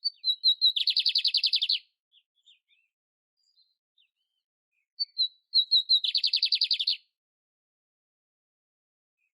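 Canário-império (canary) singing two identical phrases about five seconds apart: each opens with a few short, high whistled notes and runs into a fast trill about a second long. Faint single notes come between the phrases.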